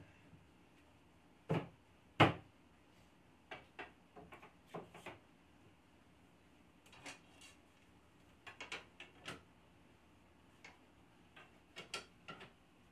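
Wooden engine-room deck boards being handled: two sharp knocks about one and a half and two seconds in, then scattered lighter clicks and taps.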